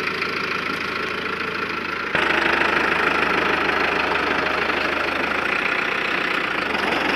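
Tractor engine running steadily with a knocking clatter, getting louder about two seconds in and holding there.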